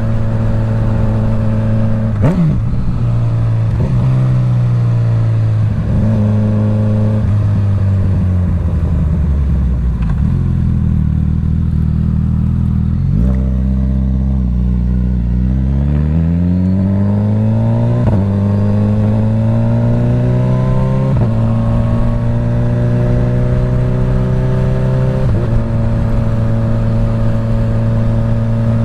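Suzuki GSX-S1000's inline-four engine through a full Dominator exhaust, heard from a mic inside the rider's helmet while riding slowly. The engine slows to a low idle near the middle, then rises again in steps, with sudden drops in pitch at the upshifts, and settles into a steady cruise.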